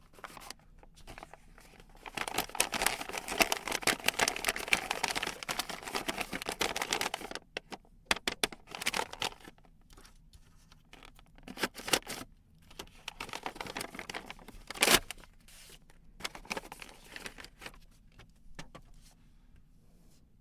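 Plastic toy packaging being unwrapped by hand: a long stretch of crinkling and tearing, then scattered rustles and small clicks, with one sharp click about fifteen seconds in.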